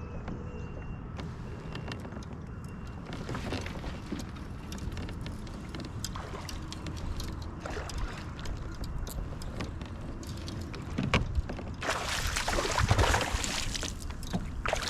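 Small clicks and knocks of handling in a kayak, then from about twelve seconds in a louder burst of water splashing: a hooked bass thrashing at the surface as it is brought to the kayak.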